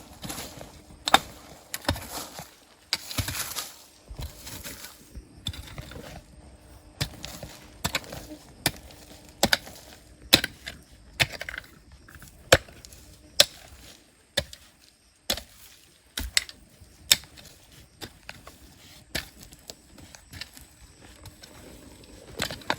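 Repeated sharp knocks and clinks at irregular intervals, roughly one a second: hand tools striking rock while digging.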